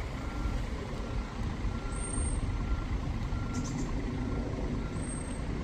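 Heavy diesel vehicle engine, likely a bus, running with a steady low rumble. A short electronic beep repeats about every three-quarters of a second, and two brief high-pitched squeals come about two seconds and five seconds in.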